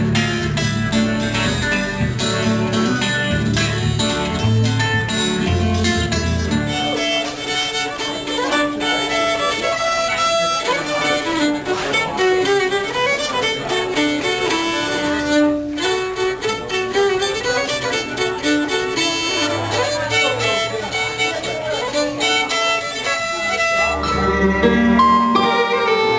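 Fiddle playing a sliding melody over a band with guitar and low bass notes. The bass drops out about a quarter of the way in, leaving the fiddle over lighter backing, and comes back near the end.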